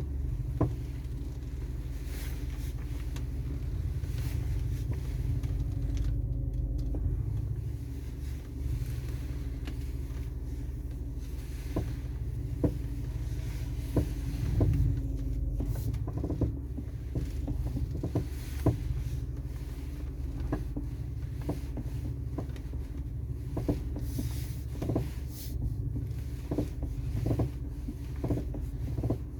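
Audi A4 B7 front suspension giving sharp, irregular pops and clunks, many times over, as the steering wheel is turned, over a steady low rumble. The owner suspects a dry ball joint in the new front right upper control arm, or loose subframe bolts.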